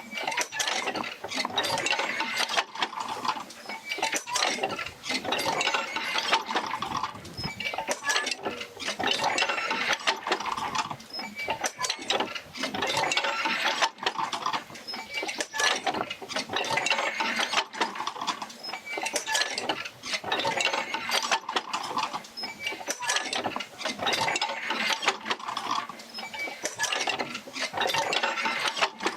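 Oil-field field wheel rocking back and forth as it distributes the Fitzgerald Rig's motion to the jerker lines, with mechanical clicking and clanking in a slow cycle that repeats roughly every two seconds.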